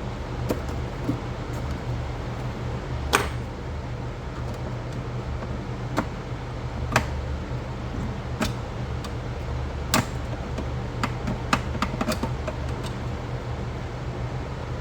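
Scattered sharp clicks and knocks of hard plastic pool-cleaner parts being handled and worked by hand, over a steady low hum.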